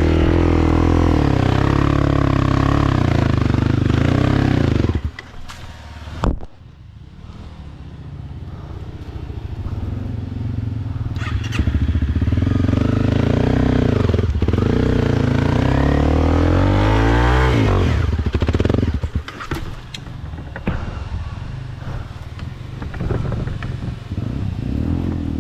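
Motorcycle engine pulling hard, then the throttle shut about five seconds in, then revving up again with rising pitch through a couple of accelerations before easing off near the end.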